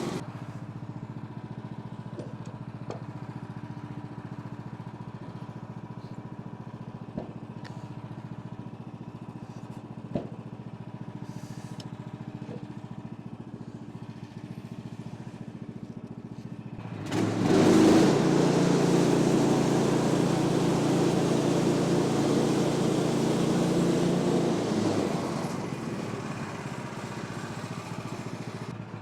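Gas engine of a Woodland Mills HM126 portable bandsaw sawmill running steadily at low speed, with a couple of sharp clicks, then revving up suddenly about two-thirds of the way in and running loud for several seconds before easing off near the end.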